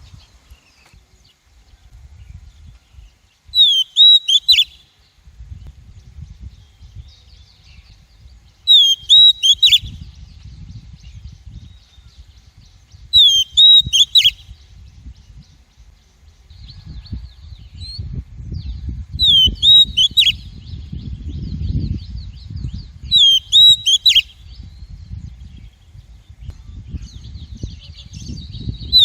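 Female Oriental magpie-robin calling: a short phrase of quick, hooked whistled notes repeated about every five seconds, with softer chattering between calls later on. A low rumble runs underneath.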